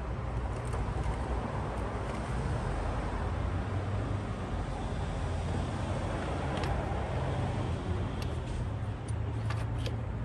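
Steady low background rumble and hum, with a few light metallic clicks of a socket and swivel being worked onto a spark plug, mostly in the second half.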